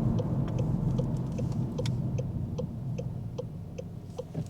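A car's turn-signal indicator ticking steadily, about two to three clicks a second, over low engine and road hum inside the cabin. The signal is on for a roundabout.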